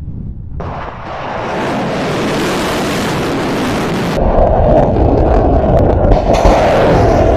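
Rocket motors of launching missiles: a steady rushing noise with a deep rumble, in edited clips that cut abruptly. It drops sharply at the start, changes about half a second in, and grows louder and deeper about four seconds in.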